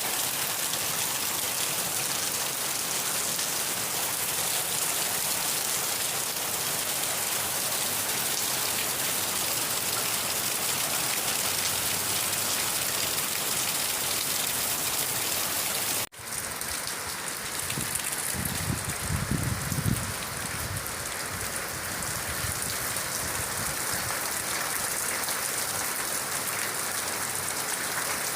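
Steady rain falling on a surface, an even hiss of drops. A little over halfway through it cuts out for an instant and resumes with a slightly different tone, and a low rumble follows for about two seconds.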